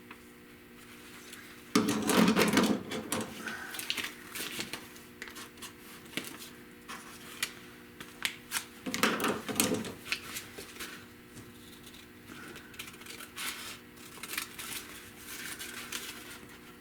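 Irregular light clicks and snips of hand work on a sheet-metal patch piece, with two louder clattering bursts about two and nine seconds in, over a faint steady hum.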